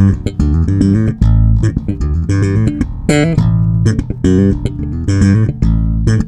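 Sire M2 2nd Generation electric bass played on its own, a quick run of plucked notes with sharp, bright attacks.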